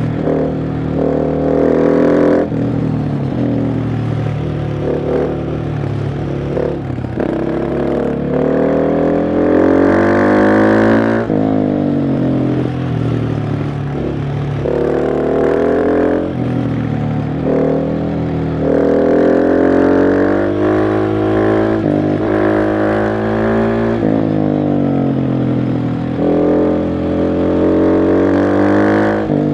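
KTM 690 SMC R's single-cylinder engine under way, its revs climbing again and again and then dropping sharply or falling away: accelerating through the gears, shifting and rolling off the throttle.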